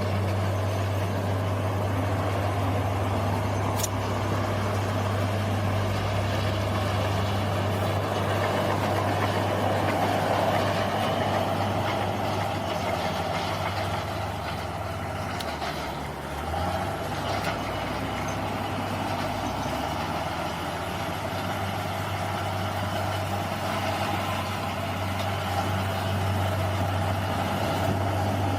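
Bulldozer's diesel engine running steadily under work, its low drone easing briefly about halfway through before picking up again.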